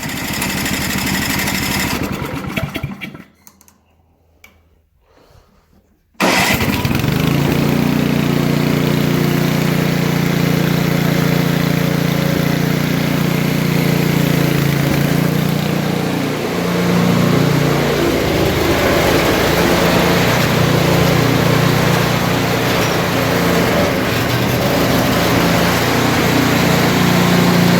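Briggs & Stratton engine on a Brute snowblower running after its carburetor was taken off and cleaned; the owner suspects water or ice in it had kept it from starting. The sound dies away about three seconds in and there are a few quiet seconds. It then comes back abruptly and runs steadily, at full level, for the rest of the time.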